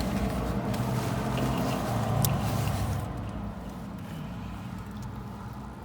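Low, steady car rumble heard from inside the car, which becomes quieter about three seconds in.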